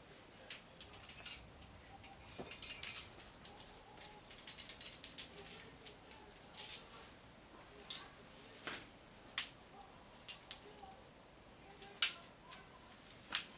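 Metal climbing gear being handled: carabiners and cams clinking and clicking against each other as they are sorted and racked, in irregular light clinks with a few sharper clacks, the loudest near the end.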